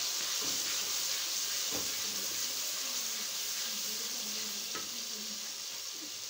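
Tomato masala sizzling steadily in hot oil in an aluminium pan as it is stirred with a wooden spoon. The spoon knocks lightly against the pan twice.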